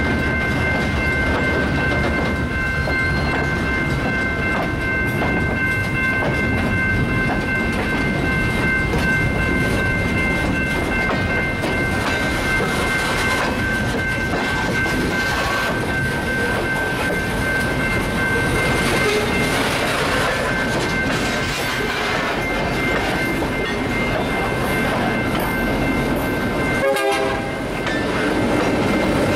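Freight cars rolling slowly past close by, wheels clattering over the rail joints, with a steady high-pitched ringing over it all. Near the end the EMD GP9 locomotive draws alongside and its diesel engine joins the rumble.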